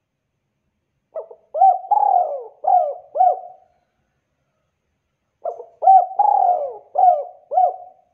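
Spotted dove (tekukur) calling: two phrases of its rhythmic cooing, each a run of about five short coos with a brief lead-in, the first starting about a second in and the second about five and a half seconds in.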